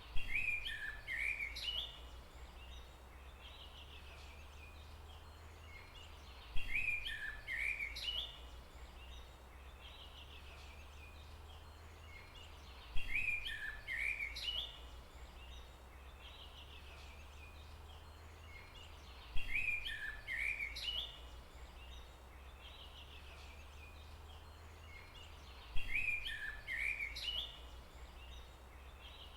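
A songbird repeating the same short phrase of quick chirping notes, five times at even gaps of about six and a half seconds, over a steady low hum.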